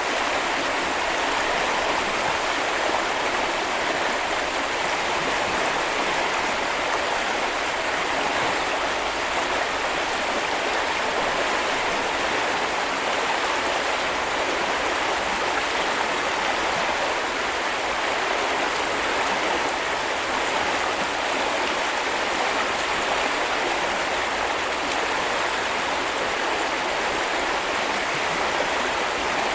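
Small river or brook flowing steadily over stones: an even rushing and babbling of water.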